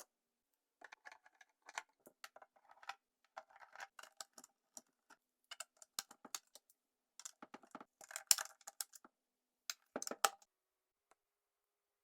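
Small plastic miniature items clicking and tapping as they are handled and set into a toy mini fridge, with light rustling; the handling is busiest about eight and ten seconds in.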